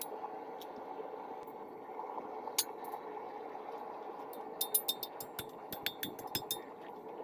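Light metal-on-metal clinks as the rebar is handled and worked at the anvil. They come scattered at first, then in a quick run over the last couple of seconds, over a steady background hum.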